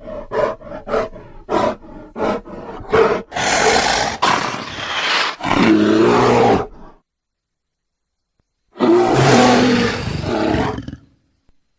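Fictional creature sound effect built from grizzly bear sounds: a quick run of short grunts, then a long growling roar, a pause of about two seconds, and a second roar.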